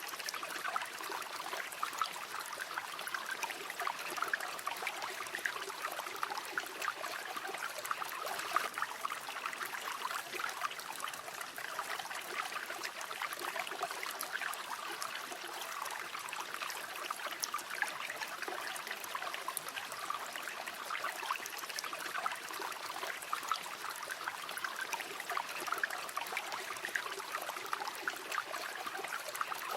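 River water flowing steadily over stones, a continuous babbling rush with many small splashes and trickles.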